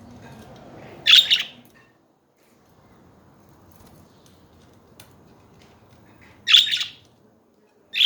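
Pet budgerigar chirping: two loud, short, high calls, one about a second in and one near the end, with faint background noise between.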